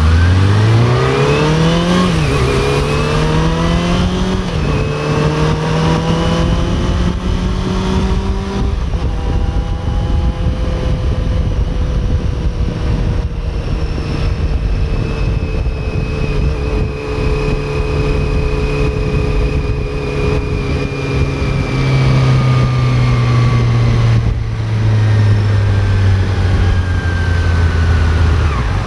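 Honda CB400 Super Four's inline-four engine accelerating hard through the gears. Its pitch climbs and drops back at each upshift, about two and four and a half seconds in, then climbs again. After that it runs at a steady, slowly falling pitch and eases off with lower steps near the end.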